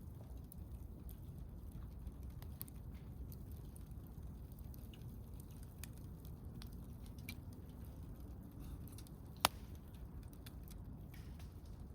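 Wood campfire crackling, with scattered small ticks and one sharp pop about nine and a half seconds in.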